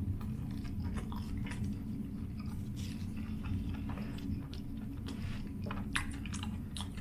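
Close-miked chewing of a bite of sausage in a toasted sesame-seed bun: wet mouth sounds and small crackles over a steady low hum, with a few sharper clicks about six seconds in.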